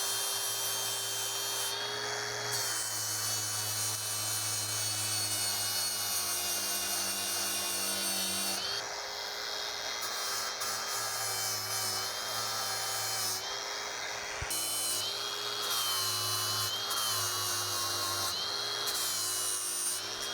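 Angle grinder with a flap disc grinding down welds on steel. The motor whine is steady under a rough grinding hiss, its pitch dipping several times as the disc is pressed into the metal and recovering as it eases off.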